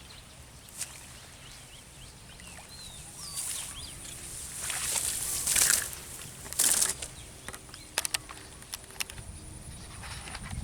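Outdoor ambience by the water: several short bursts of rustling or swishing, a quick run of sharp clicks near the end, faint bird chirps and a steady thin high tone.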